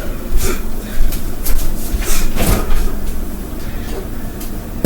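A few short knocks and clicks of kitchen things being handled, over a low steady hum.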